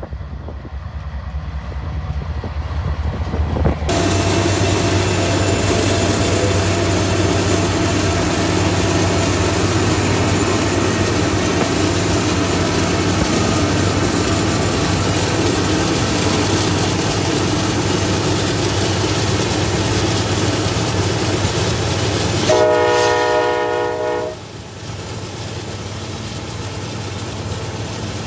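A train passing close by: its rumble builds over the first few seconds, then runs steady and loud with engine drone and rail noise. Late on, the train horn sounds one blast of about two seconds, and after it the train noise falls off.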